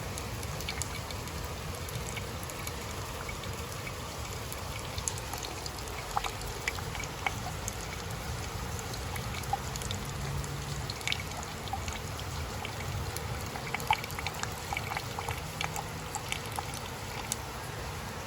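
Water trickling, with scattered small drips and ticks over a steady low rumble.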